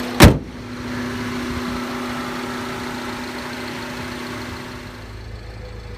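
A sharp slam about a quarter second in, then the MINI Cooper S Countryman's 1.6-litre turbocharged inline-four idling steadily, its hum changing and dropping a little about five seconds in.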